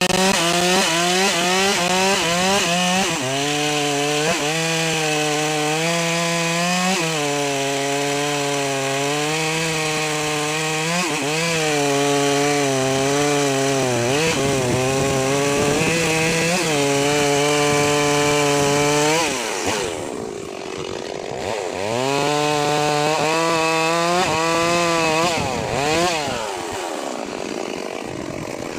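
Two-stroke chainsaw running at full throttle, cutting into the base of a sengon tree trunk. Its engine pitch sags briefly and recovers again and again as the chain bites into the wood. About two-thirds of the way through it drops to a low idle, revs back up into the cut, and falls away again near the end.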